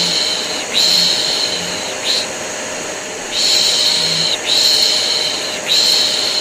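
Rhythmic shushing 'shhh' baby-soothing sound, in a repeating pattern of three long shushes and one short one, over the steady hum of a running vacuum cleaner, used together as white noise to calm a colicky baby.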